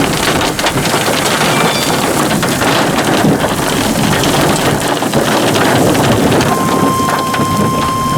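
Heavy rain pelting the vehicle, a dense hiss full of small ticks of drops striking. About six and a half seconds in, a steady beep starts, the NOAA Weather Radio 1050 Hz alert tone that comes before a tornado warning broadcast.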